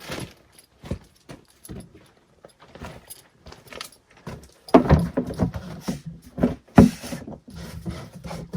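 Scattered metallic clinks, rattles and knocks from handling tools and parts at a machine's engine oil drain, with a louder cluster of knocks about five seconds in and one sharp knock near seven seconds.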